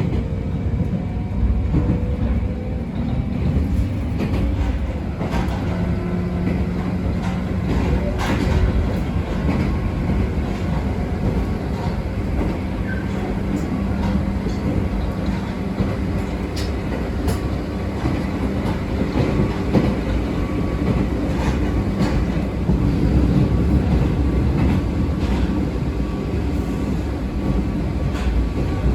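Abukuma Express 8100 series electric train running between stations, heard from inside the car: a steady rumble of wheels on rail with a motor hum and a few sharp clicks.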